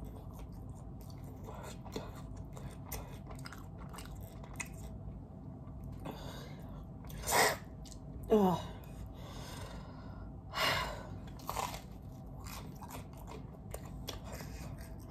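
Close-up chewing of pizza crust, with many small wet mouth clicks. A few louder noisy puffs come around the middle, and just after eight seconds there is a short sound that falls in pitch.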